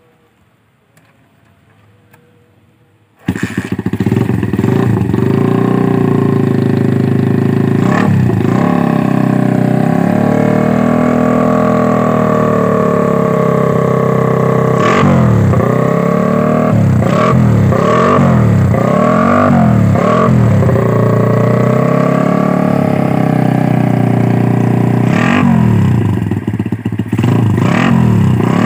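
Motorcycle engine starting about three seconds in, then idling and revved in repeated short blips, each rising and falling, through a homemade exhaust muffler built from a mini LPG gas canister.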